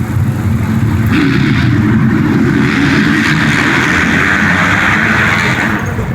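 Motocross motorcycle engines running hard, getting louder about a second in and easing off near the end.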